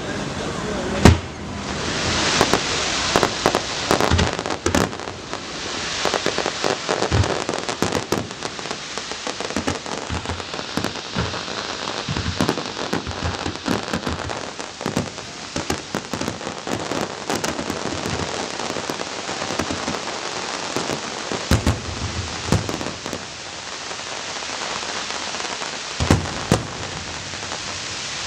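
Aerial fireworks display: a dense run of shell bursts and continuous crackling, with sharp single bangs about a second in and again near the end.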